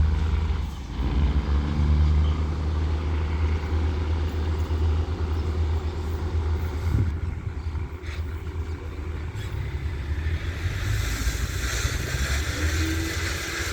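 Diesel train engine running with a deep, steady rumble. A rushing hiss joins in about three-quarters of the way through.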